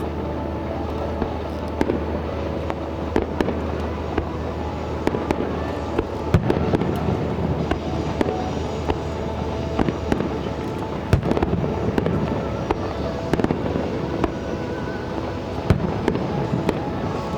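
Aerial fireworks bursting in quick succession: many sharp cracks and bangs with crackling between them. A low steady hum sits underneath and stops about ten seconds in.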